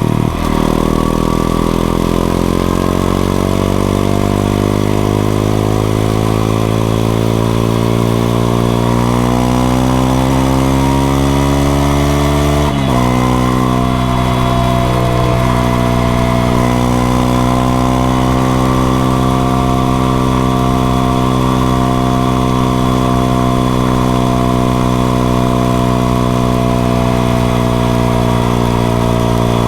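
Honda XRE 190's single-cylinder engine on the move. Its pitch climbs steadily for about twelve seconds as the bike accelerates, drops suddenly at a gear change, then holds an almost steady note that rises slowly in the next gear.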